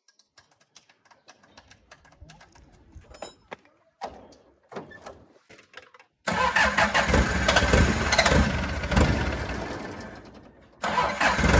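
Faint scattered clicks and knocks, then about six seconds in a vehicle engine starts abruptly and runs loudly. It eases off, cuts out briefly and comes back loud near the end.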